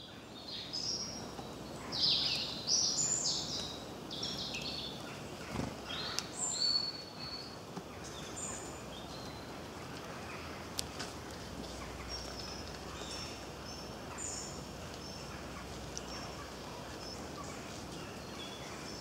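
Birds chirping in short high calls, busiest and loudest a couple of seconds in and sparser after that, over a steady outdoor background hiss.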